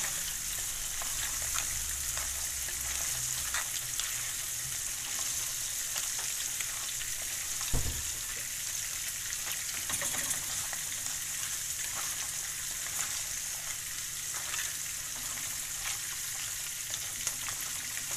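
Crab pieces sizzling in hot oil and masala in a clay pan, stirred with a wooden spatula that scrapes and taps against the pan. There is a steady sizzle with scattered small clicks and one louder knock about eight seconds in.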